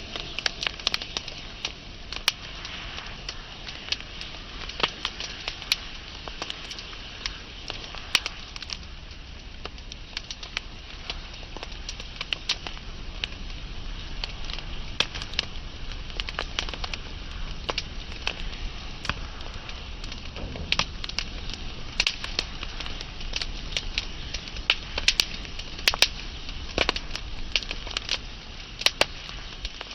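Wood fire burning and crackling: frequent sharp, irregular pops and snaps over a steady hiss and low rumble of the flames.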